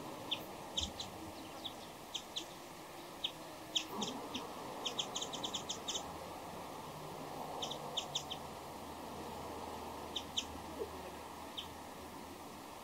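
Small wild songbirds chirping: short, sharp, high chirps, some single and some in quick runs, the densest flurry about halfway through, over a steady low background hum.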